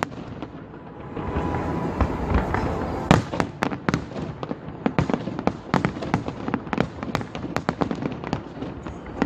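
Fireworks display: a rumble of launches, then a loud bang about three seconds in, followed by a rapid crackling of many small sharp reports, several a second.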